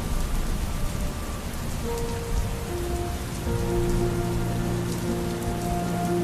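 Steady rain falling on a surface, laid over slow, reverberant music of long held notes; lower notes come in about three and a half seconds in.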